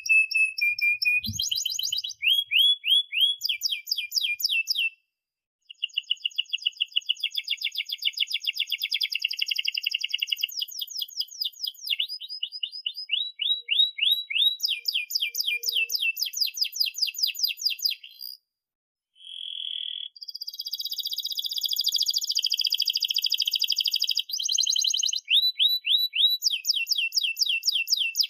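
Domestic canary singing a long, continuous song of fast rolling trills and sharp high chirps. The song is broken twice by a brief silence.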